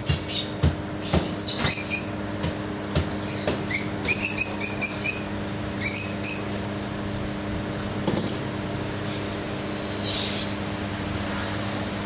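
Small birds chirping in short, high-pitched bursts every second or two, over a steady low mechanical hum.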